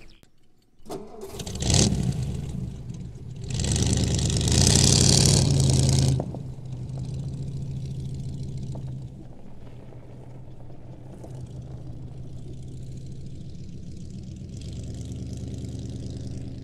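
A 1950s American sedan's engine starting about two seconds in, revving loudly for a few seconds, then running steadily as the car pulls away. The sound cuts off suddenly at the end.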